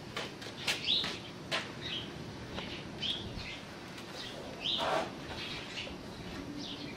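Small birds chirping: short, high chirps, some sliding down in pitch, repeated every second or so, with a louder call about five seconds in. A few sharp clicks come in the first second and a half.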